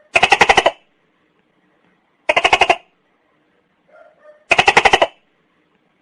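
Tokay gecko calling: three loud calls about two seconds apart, each a rapid string of pulses lasting about half a second.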